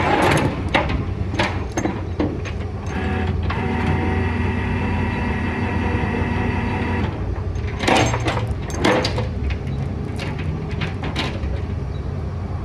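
Flatbed tow truck's engine running steadily while the winch pulls a junk car up the bed. A steady whine, the winch working, holds from about three to seven seconds in. Scattered clanks and knocks come from the car and chain around it.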